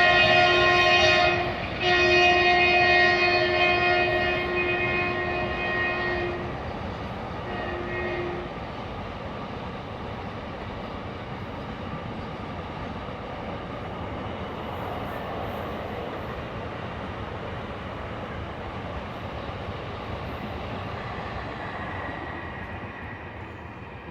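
Diesel freight locomotive's air horn: a blast that ends about a second and a half in, a second long blast right after, and a short toot about eight seconds in. Then the steady rolling rumble of a double-stack container train's wagons passing, easing off near the end.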